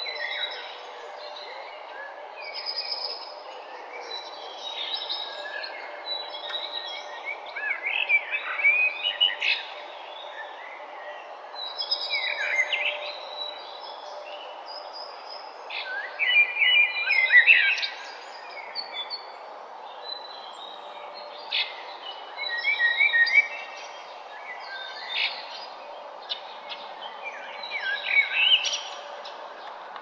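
Songbirds chirping and trilling in short bouts every few seconds, several quick notes at a time, over steady background noise.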